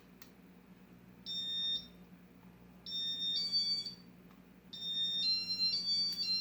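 Casablanca Panama ceiling fan's electronic beeper playing tone sequences as it runs through demo mode: a short high beep about a second in, a longer two-pitch run around three seconds, and a longer multi-note run from about five seconds on. A faint steady hum lies underneath.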